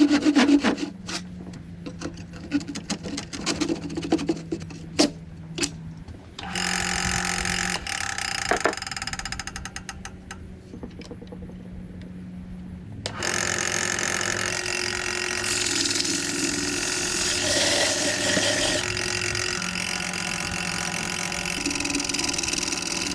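Workshop tool sounds: a few sharp clicks and knocks of handling for the first several seconds, then an electric power tool's motor running steadily, growing louder and fuller about halfway through.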